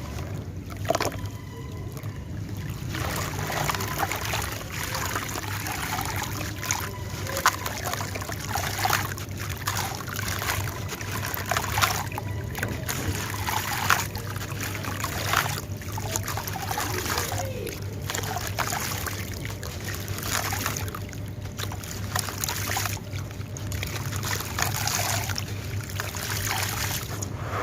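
Hardened sand-cement chunks crumbling and crunching in water, with a steady crackling, fizzing trickle and sharp cracks every second or two. A low steady hum runs underneath.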